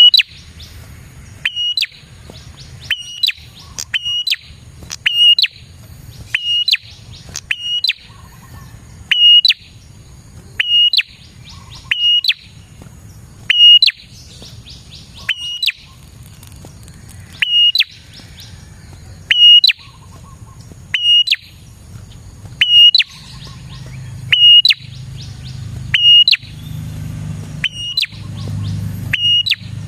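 Prinia (prenjak) singing: loud, sharp chirps repeated about every one and a half seconds, with quick rattling trills between some of them. A low background rumble grows louder near the end.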